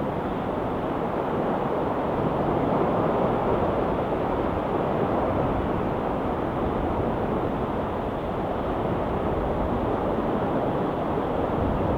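Steady wash of sea surf: an even, constant rushing noise with no single wave break standing out.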